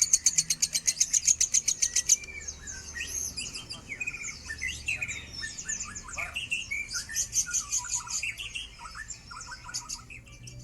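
Lovebird singing. It opens with a fast, even rattling trill for about two seconds, then breaks into a run of varied high chirps and squeaky gliding notes.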